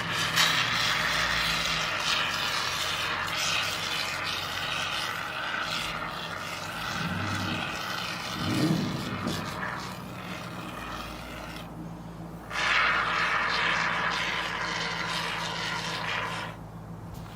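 Can of expanding foam spraying with a steady hiss, in two long sprays with a short break about twelve seconds in.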